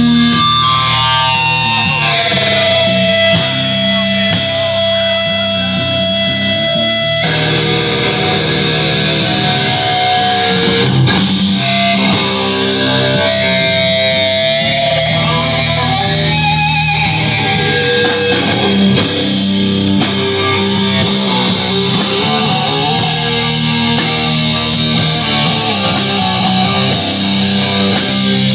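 Live rock band playing a loud instrumental passage, electric guitars over bass guitar and drums, with no singing.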